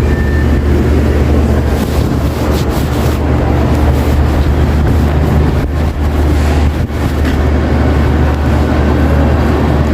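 Supermarket ambience: a steady, loud low hum under a dense wash of background noise, with a brief high beep right at the start.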